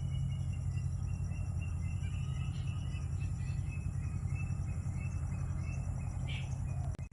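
Faint small-bird chirps and tweets, scattered short notes, over a louder steady low rumble; the sound cuts off abruptly near the end.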